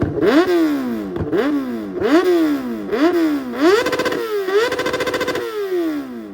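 A car engine revved hard in quick blips, about one a second, each climbing sharply and falling back. About four seconds in it is held against the rev limiter for over a second with a rapid stutter, then it drops off near the end.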